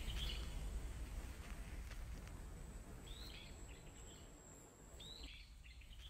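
Faint bird calls: short chirping phrases near the start, about three seconds in, and again about five seconds in, over a steady low background rumble.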